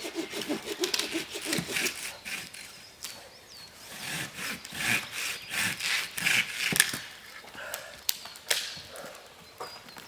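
Wood being sawn by hand, rasping strokes coming in irregular bursts.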